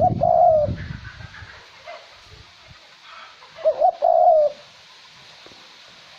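Male cu moi dove cooing: two short coo phrases about three and a half seconds apart, used as a lure call. Wind rumbles on the microphone during the first call.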